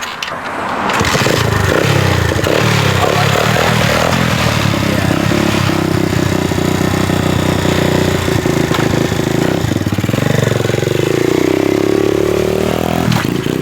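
Dirt bike engine revving hard as the rider pulls away, its pitch dipping and then climbing again a few seconds before the end.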